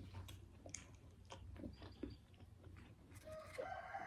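Quiet close-up chewing of a meal of meat and vegetables: soft irregular mouth clicks and bites over a low steady hum. Near the end a held, pitched call starts.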